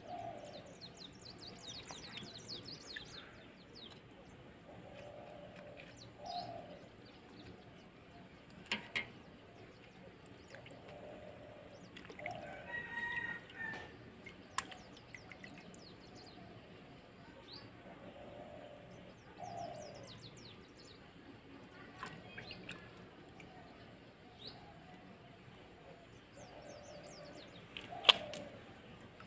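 Birds chirping, with a short falling call repeating every few seconds, and a few sharp clicks, the loudest near the end.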